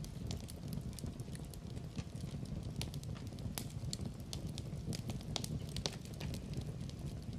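Wood fire burning in a fireplace: a steady low rumble of flames with irregular sharp crackles and pops throughout, a few louder snaps among them.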